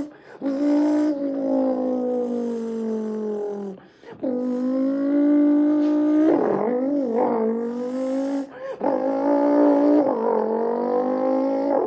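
A man imitating the Aston Martin Victor's V12 engine with his voice, going for a burnout: long held revving notes that sag, hold and climb again, with a warbling stretch in the middle, broken by short breath pauses about four and nine seconds in.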